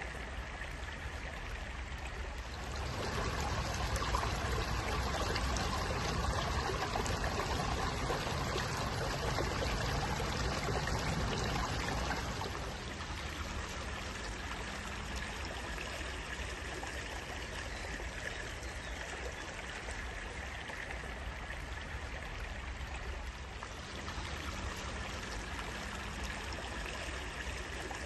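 Stream water running and trickling in a steady rush. It swells louder for several seconds near the start, then settles back.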